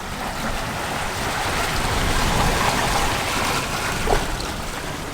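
Sea water rushing and splashing along a sailing yacht's hull while under way, swelling a little about two to three seconds in.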